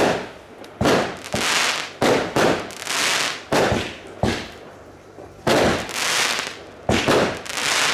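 Fireworks display: a quick run of aerial shell bursts, about a dozen sharp bangs, each trailing off in a hissing crackle, with a brief lull around the middle.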